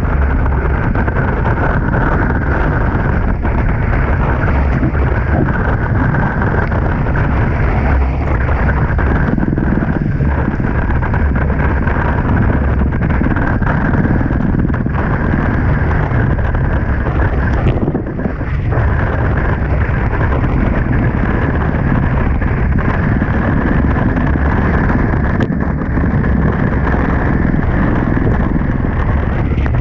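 Strong wind buffeting an action camera's microphone aboard a Tornado catamaran sailing fast, a loud, steady roar.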